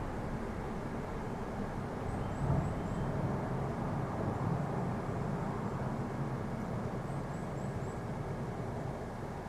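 Low, steady engine rumble of a vehicle in the distance, swelling slightly about two and a half seconds in, with faint high chirps in small groups over it.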